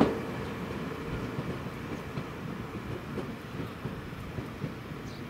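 A train moving away along the track, its wheels clicking over rail joints as the rumble fades.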